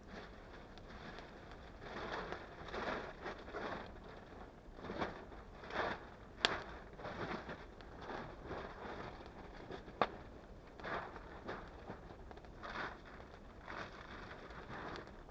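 Irregular rustling and scraping from hands-on work, with two sharp snaps about six and a half and ten seconds in.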